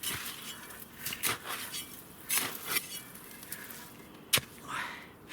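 Small sapper's shovel cutting into and scraping deep snow: a series of short, sharp crunching strokes at irregular intervals, with a brief scrape near the end.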